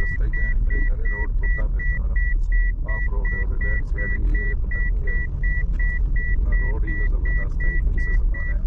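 A car's electronic warning beeper sounding a steady high beep about three times a second, over the low rumble of the car's running engine and road noise.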